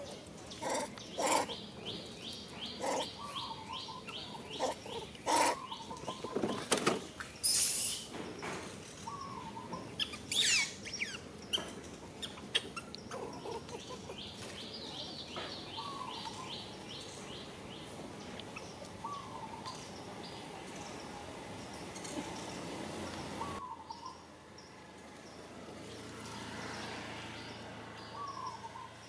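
Birds chirping and trilling, with short chirps that recur every few seconds. Several sharp clicks and knocks stand out in the first eight seconds, and a quick sweeping call comes about ten seconds in.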